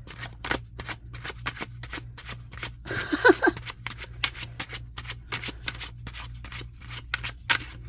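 A deck of tarot cards being shuffled by hand: a quick, irregular run of card flicks.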